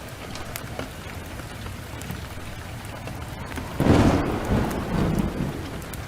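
Steady heavy downpour with a few sharp crackles from a wood fire, then about four seconds in a sudden clap of thunder that rumbles and fades away.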